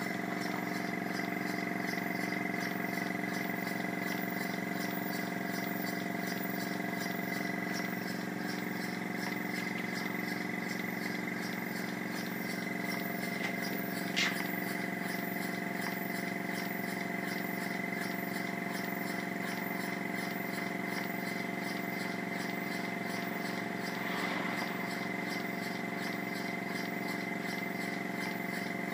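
Stuart model beam engine running steadily under pressure, its strokes making a fast, even beat over a constant hum. One sharp click about midway.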